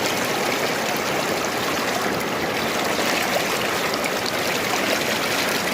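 Steady rushing water from a river and the gold sluice box running in it: an even, unbroken wash.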